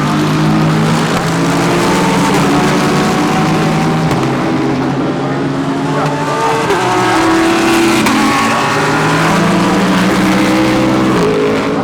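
GT3 race cars' engines running at racing speed through a corner, several cars at once. Their notes overlap and shift up and down in pitch as they brake and accelerate.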